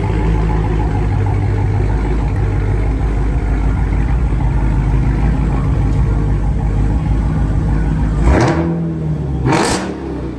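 Dodge Challenger SRT Hellcat's supercharged 6.2-litre Hemi V8 running through a freshly straight-piped exhaust, its mid mufflers and resonators removed: a steady low idle, then two quick revs about eight and nine and a half seconds in.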